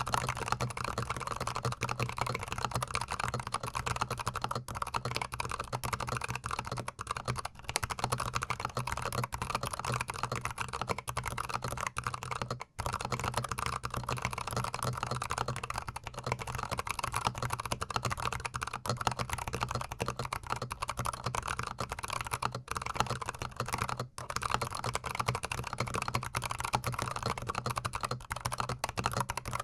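Fast, continuous typing on a GMMK Pro gasket-mount mechanical keyboard, recorded with the microphone very close: a dense stream of keystroke clacks that breaks off briefly twice.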